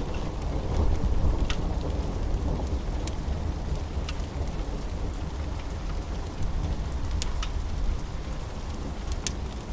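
Steady rain under a low rumble of thunder, a little louder about a second in, with scattered sharp crackles of a wood fire.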